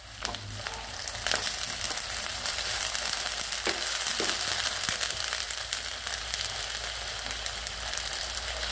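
Chopped onions and freshly added ginger-garlic paste sizzling in hot oil in a clay pot, stirred with a wooden spatula that scrapes and clicks against the pot. The sizzle swells about a quarter-second in as the paste is stirred through.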